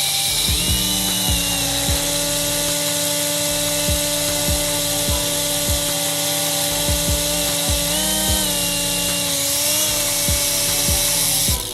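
Small toy RC helicopter's electric motor whining steadily, its pitch rising briefly twice as the throttle changes, then cutting off suddenly near the end.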